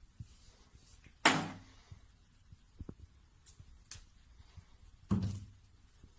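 Two sudden thumps about four seconds apart, each dying away within half a second, with a few faint clicks between them.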